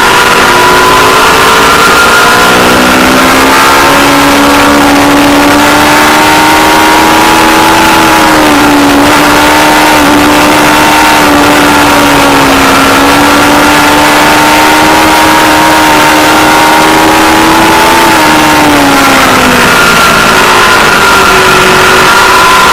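Aprilia Tuono V4 Factory's 1100 cc V4 engine running at high revs under load, its pitch held fairly steady with a couple of brief dips, then falling off near the end as the throttle closes. Heard through an overloaded camera microphone, distorted and buried in a constant rush of wind noise.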